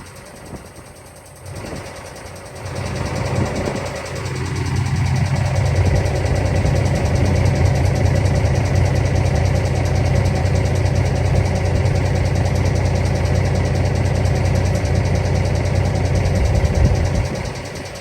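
Heavy diesel truck engine running. It grows louder a few seconds in, holds a steady low rumble, and drops off near the end.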